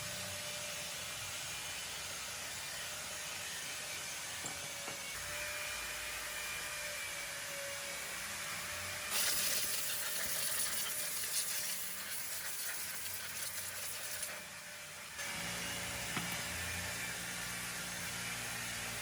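Steady mechanical hiss, growing louder and harsher from about nine seconds in for some six seconds, then dropping back.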